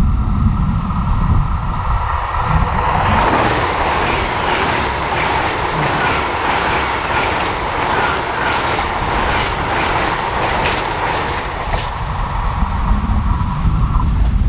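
A train passing on a mainline. The rail noise swells about three seconds in and carries a run of repeated clicks from wheels going over the rails, then drops away shortly before the end. Wind rumbles on the microphone at the start and again at the end.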